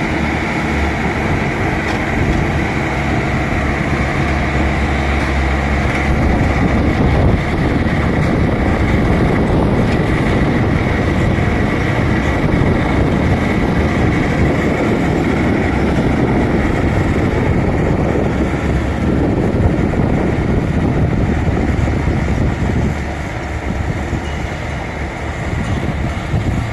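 Bulldozer's diesel engine running, a steady note at first, then louder and rougher from about six seconds in, easing off a little near the end.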